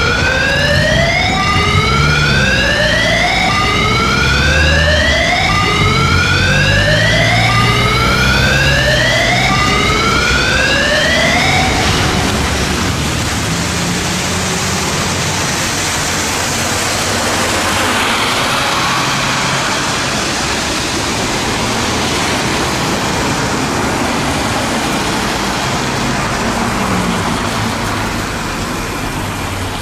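Emergency vehicle siren sounding a repeating rising sweep, about one every second and a half, over a vehicle engine's rumble. About twelve seconds in the siren stops, leaving a steady rushing noise of traffic and road.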